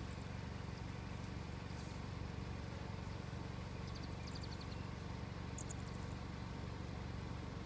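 Vehicle engine idling with a steady low hum, with a few faint high chirps about halfway through and again near the end.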